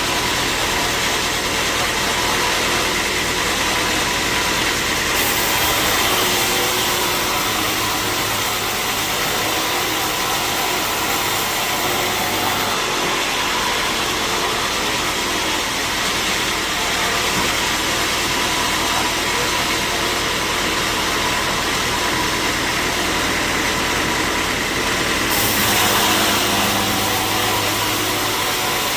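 Sawmill machinery running steadily, a constant mechanical hum and hiss. Its tone shifts abruptly three times, about five, thirteen and twenty-five seconds in.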